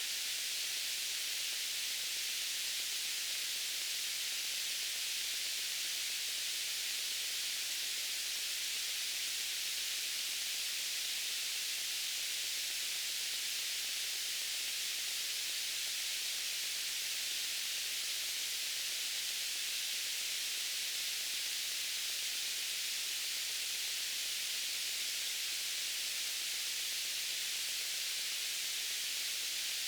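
White noise: a steady, unchanging hiss with most of its energy in the upper range.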